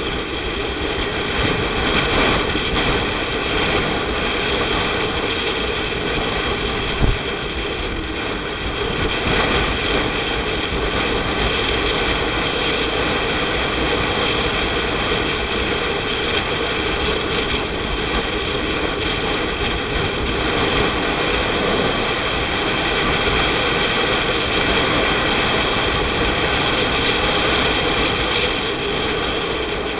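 Motorcycle on the move: a steady roar of engine, tyres and rushing air, with a single brief knock about seven seconds in.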